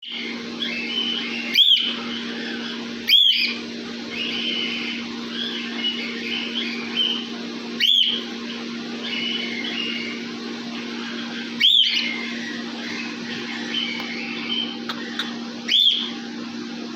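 A flock of cockatiels calling in an aviary: five loud, arching contact calls, each rising and falling in pitch, stand out over constant softer chirping and chatter from the rest of the birds. A steady low hum runs underneath.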